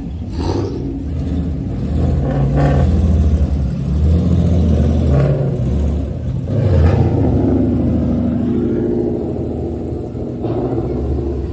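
A car engine running loud with a deep exhaust note, revved up and let back down several times.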